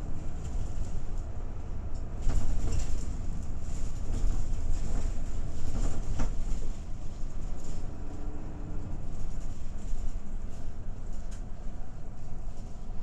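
Inside a Hinomaru Jidosha route bus under way: a steady low rumble of engine and road noise, with short knocks and rattles about two and six seconds in.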